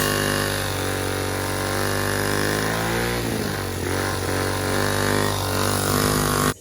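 212cc single-cylinder four-stroke engine running through a custom Walker exhaust with an RLV tip. Its pitch dips and rises around the middle, and the sound cuts off abruptly near the end.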